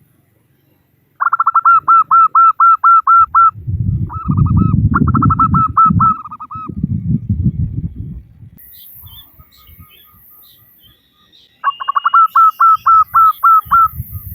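Female zebra dove (perkutut) calling in three fast runs of short repeated notes, about a second in, in the middle and near the end. A loud low rumble sits under the middle run. The call is a female's call used to lure males.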